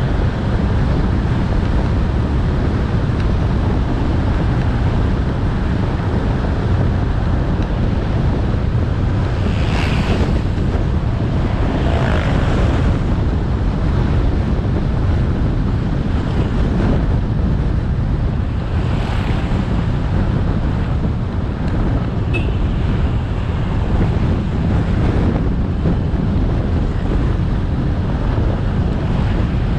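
Wind rushing over the microphone of a motorcycle-mounted action camera while riding, a steady low rumble of wind, engine and road noise. A few brief louder swells of noise come through about ten, twelve and nineteen seconds in.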